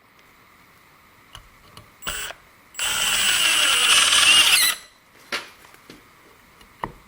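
Milwaukee M18 brushless cordless impact driver driving a screw. A short blip comes about two seconds in, then a run of about two seconds that stops abruptly, followed by a couple of brief blips. It drives the screw very fast.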